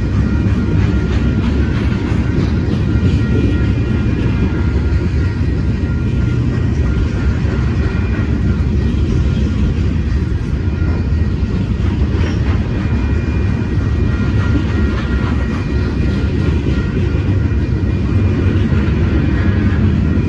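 Freight cars of a Union Pacific manifest train rolling through a road crossing: a steady low rumble and clatter of steel wheels on the rails. Above it runs a faint, steady high ringing tone.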